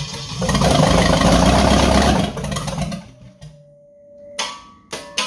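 Holden 253 4.2-litre V8 on an engine stand cranking on its starter with fuel poured down the carburettor. It is loudest for about two seconds and stops about three seconds in. A few short bursts follow near the end.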